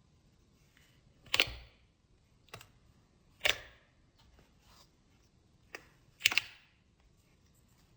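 Slime being pressed and played with, trapped air popping in a few sharp clicks, three louder pops about two seconds apart with fainter clicks between.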